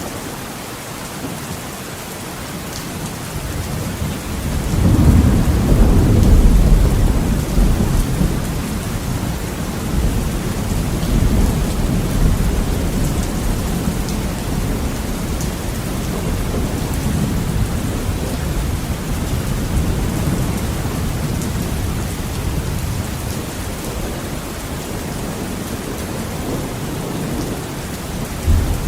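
Heavy rain falling steadily while a long roll of thunder swells about five seconds in and slowly rumbles away; another rumble begins near the end.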